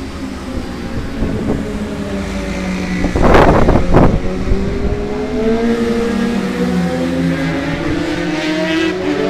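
Aircraft engines running with a steady pitched drone that slowly rises in pitch through the second half. Two short, loud bursts of rushing noise come about three and four seconds in.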